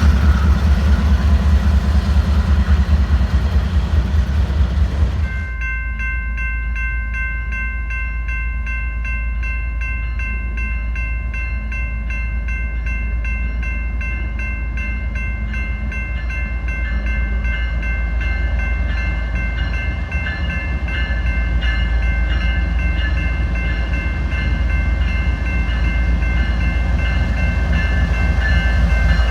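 Freight train cars rolling past with a heavy, rhythmic rumble. About five seconds in the sound changes abruptly to a steadier rumble with a steady, high-pitched squeal of several tones.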